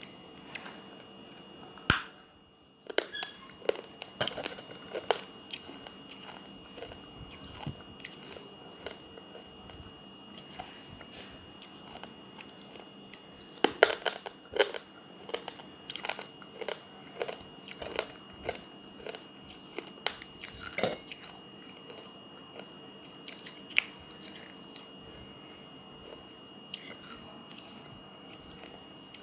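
A water-soaked clay kulhad being bitten and chewed. A sharp crack comes about two seconds in, then clusters of crunching bites, thickest around the middle, thinning out near the end.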